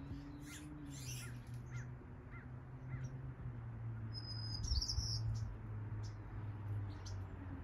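Small birds chirping: a run of short chirps over the first few seconds, then a higher, brighter call about halfway through, over a steady low hum.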